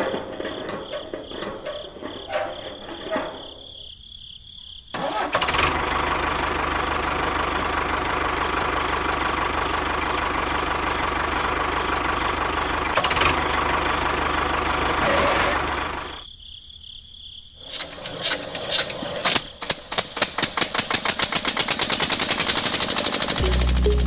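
Small motor running steadily for about ten seconds, cutting out, then starting again as a run of pulses that speed up toward the end.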